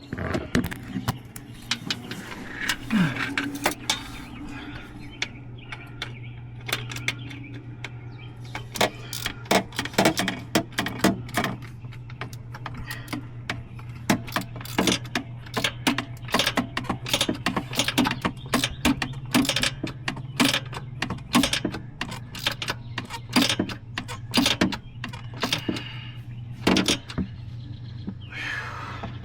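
Irregular metallic clicks and clinks of hand tools and parts being worked on the Jeep's engine, with a steady low hum underneath.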